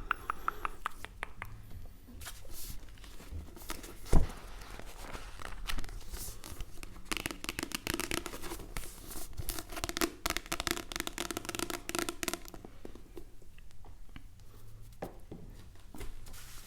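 Close-miked hand sounds on objects, with a run of sharp taps and clicks and a denser spell of rapid crinkling or scratching strokes in the middle. A single louder knock comes about four seconds in.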